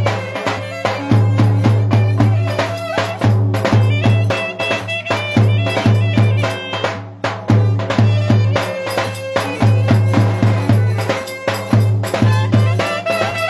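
Turkish folk music played by a band: a fast melody over a loud, sustained low bass note, driven by quick, even percussion beats.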